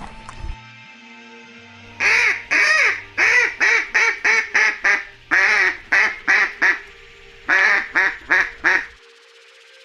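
An animal calling in three quick runs of short calls, each call rising and falling in pitch, over faint background music.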